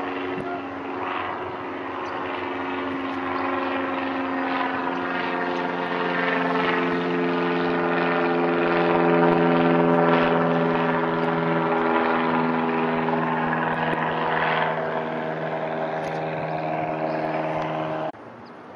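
A departing propeller aircraft flies over with a steady, droning engine and propeller note that builds to its loudest about ten seconds in, then cuts off abruptly near the end.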